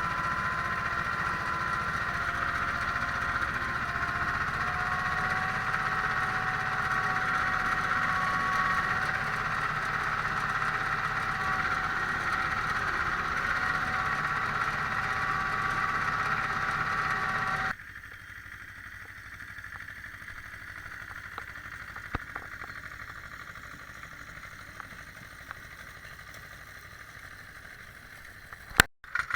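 Ursus C-330 tractor's two-cylinder diesel engine running steadily, its pitch creeping slightly higher. About two-thirds of the way through the sound cuts off abruptly to a much quieter background with a few scattered clicks.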